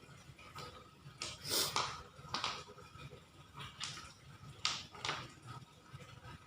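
Handling noises from play with a toy truck and stones: about half a dozen short, separate scrapes and clatters.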